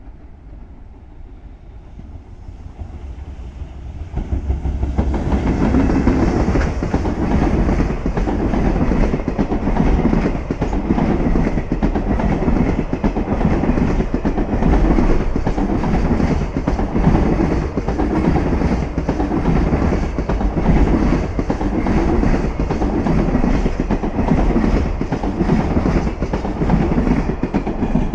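An EF210 electric locomotive and its container freight train pass at speed. The sound builds over the first few seconds as the train approaches. Then the container flatcars run past with a loud, steady rumble of wheels on rail, clattering in a rhythm that repeats about once a second.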